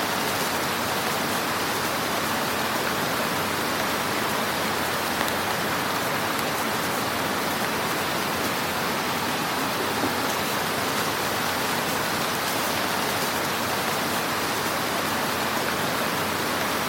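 Wood fire crackling in a fireplace: a steady hiss with faint, scattered pops.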